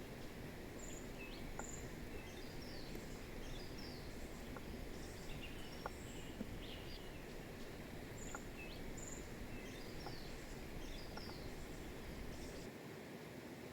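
Small birds chirping in short, scattered calls over a steady low rushing background noise.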